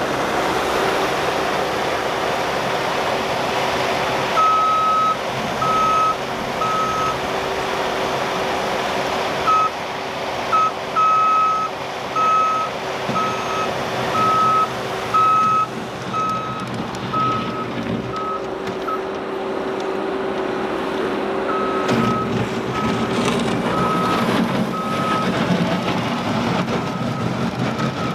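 Compact track loader's diesel engine running steadily while its reversing alarm beeps on and off in runs as the machine shuttles back and forth clearing snow.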